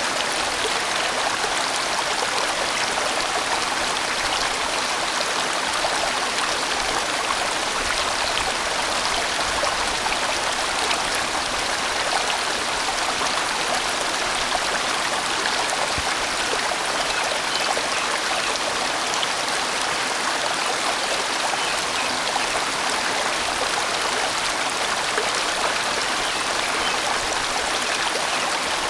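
A sizeable valley stream flowing in a steady, even rush of water.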